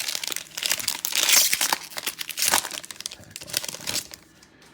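Crinkling foil wrapper of a 2020 Chronicles football card pack being handled and torn open, a dense crackle that dies down about four seconds in.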